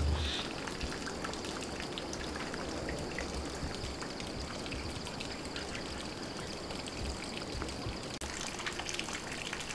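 Monsoon rain falling, with many close drops pattering and dripping irregularly over a steady hiss of rain.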